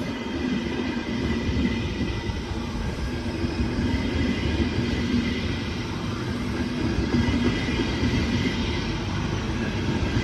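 A train running through the station: steady rumble of wheels on rail with a steady hum and a higher whine over it.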